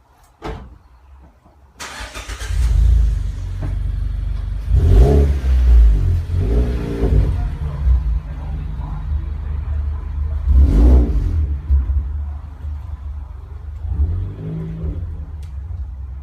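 Third-generation Mazda's engine and exhaust: the engine starts about two seconds in and runs with a deep, steady rumble. It is revved briefly three times, about 5, 7 and 11 seconds in, dropping back to idle each time.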